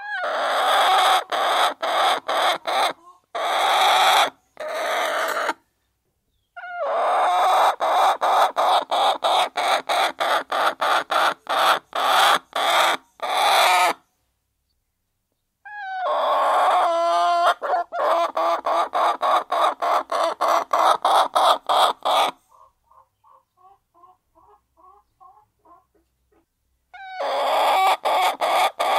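A flock of hens clucking as they peck at their feed, with rapid tapping pecks over a dense rustle. It comes in stretches that cut in and stop abruptly, and near the end there is a quieter spell of soft clucks.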